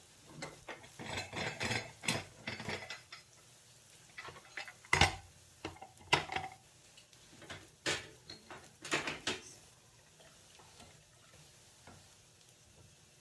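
Metal pressure-cooker pot, lid and spoon clanking and scraping in short bursts as the cooker is opened and the cooked camel meat is stirred and checked. There is a sharp knock about five seconds in, and it goes quiet for the last few seconds.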